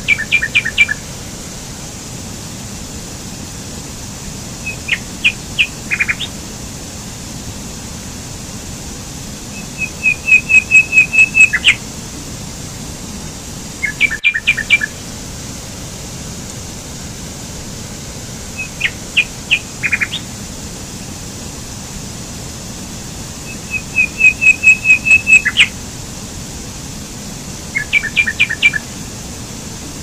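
Songbird singing short phrases of rapid chirps, seven in all, the same sequence recurring about every fourteen seconds, over the steady rush of a rocky mountain stream.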